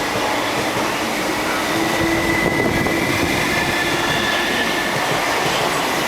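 Passenger train hauled by a DF11 diesel locomotive running through a station: a loud, steady rumble of wheels on rail, with a steady high-pitched wheel squeal over it.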